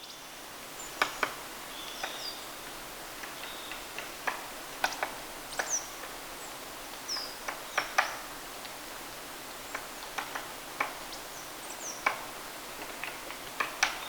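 White-backed woodpecker pecking at wood while foraging: irregular single and paired sharp taps, not a drumming roll. Several short, high chirps that drop in pitch are heard between the taps.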